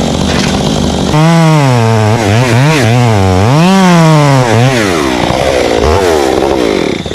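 Chainsaw engine running steadily, then revved up and down several times from about a second in, its pitch sliding down near the end.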